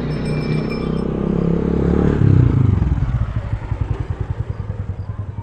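Engine running, getting loudest about two seconds in, then easing into an even chugging beat.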